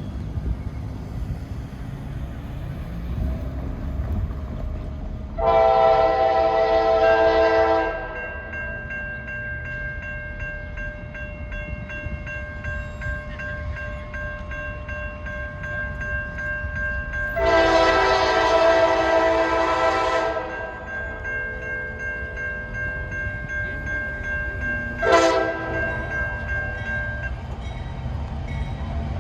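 Norfolk Southern freight locomotive's air horn sounding the grade-crossing signal: two long blasts, then a short one near the end, over the steady low rumble of the train.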